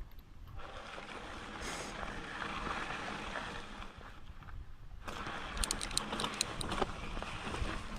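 Mountain bike rolling over rock and dirt trail: a rushing noise of tyres and motion that falls away briefly about four seconds in, then returns with a quick run of sharp clicks and rattles from the bike about six seconds in.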